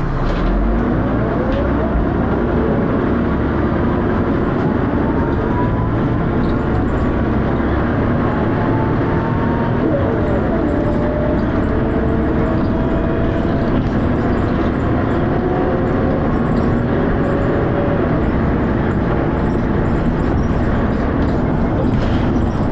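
Dennis Arrow double-decker bus's diesel engine thrashing under acceleration: its pitch rises, drops with a gear change about ten seconds in, then rises again.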